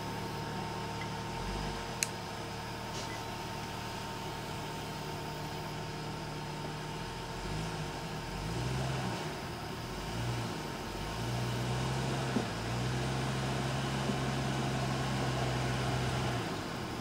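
Off-road SUV's engine working at low revs as it crawls up a rocky boulder trail, swelling and dropping in a few short bursts of throttle about halfway through, then held steady under load before easing off near the end. A single sharp knock about two seconds in.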